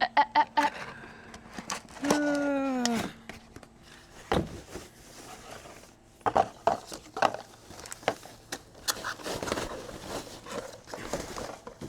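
Bike parts and packaging being handled: scattered clicks and knocks with rustling, and one drawn-out falling tone about two seconds in.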